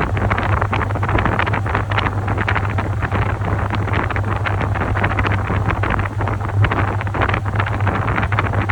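Top-loading washing machine running, with a steady low motor hum under continuous churning and sloshing of water and laundry in the tub.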